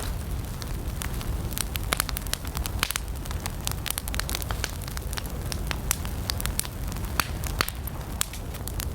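Wood campfire burning steadily with a low rumble of flames and irregular sharp crackles and pops from the burning logs.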